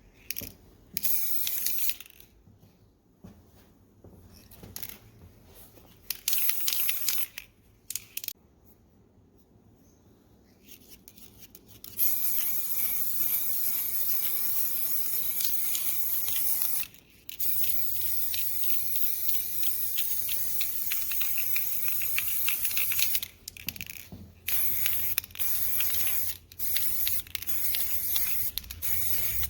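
Paint being sprayed: hissing in short bursts, then one long spray of about ten seconds with a brief break, then short bursts again.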